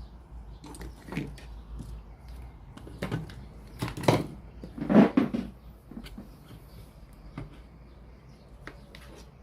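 Irregular knocks and clatter of objects being handled and set down on a work surface, the loudest two about four and five seconds in, over a low steady hum.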